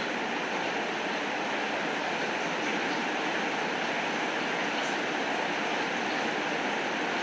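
Steady rain falling, an even hiss with no break, with a few faint high ticks now and then.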